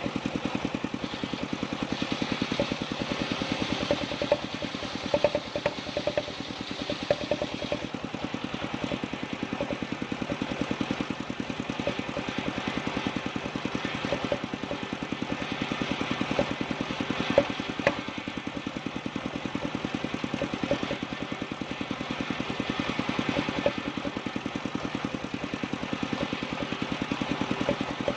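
Engine of a motor-driven wood-sawing machine running steadily with a rapid, even pulse, with a few short sharp clicks now and then.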